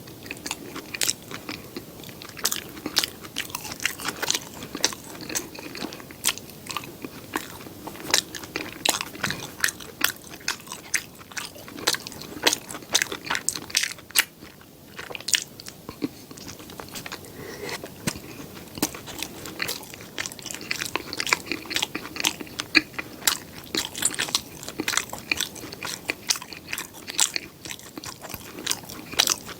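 Close-miked eating: crunchy bites and steady chewing, a dense run of crisp, irregular clicks and crackles several times a second.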